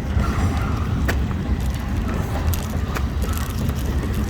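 Bird electric scooter riding over a rough, bumpy surface: a steady low rumble with scattered rattles and knocks from the scooter.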